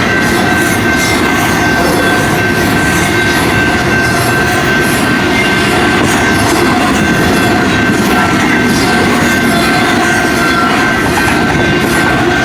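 BNSF intermodal freight train passing at speed: a loud, steady rush and rattle of wheels on the rails, with a steady high-pitched ring above it.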